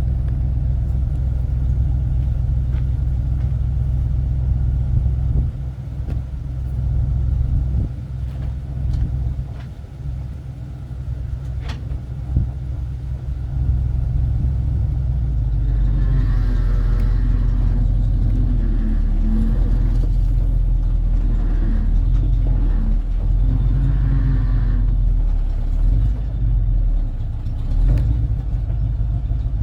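1984 tow truck's engine running with a steady low rumble, heard from the truck's back, the engine note shifting and growing busier in the second half as the truck works.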